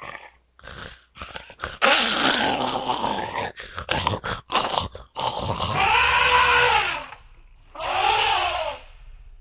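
Stampede animal sound effects: a growl, then a quick run of short sharp calls, then two long calls whose pitch rises and falls.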